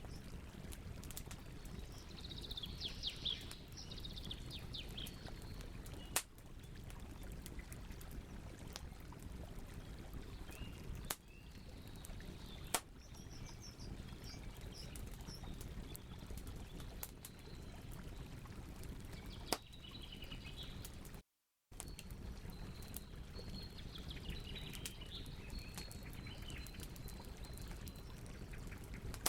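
Campfire crackling steadily with four sharp pops spread through, while small birds chirp and twitter now and then in the background. The sound cuts out completely for under half a second about two-thirds of the way through.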